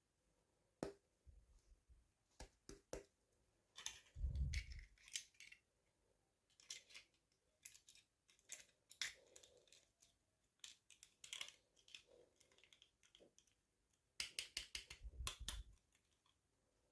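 Quiet handling of toy packaging during an unboxing: scattered small clicks and crinkles of plastic and card, with busier spells of rustling and soft bumps about four seconds in and again near the end.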